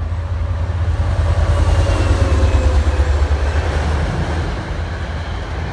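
NJ Transit diesel commuter train passing close by: a heavy low rumble that builds to a peak about halfway through and then eases as the coaches roll past.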